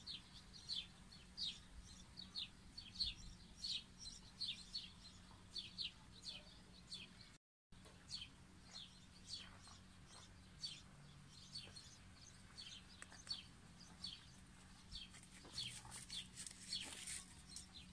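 Small birds chirping faintly: many short, high notes, several a second, with a brief dropout to silence about seven seconds in.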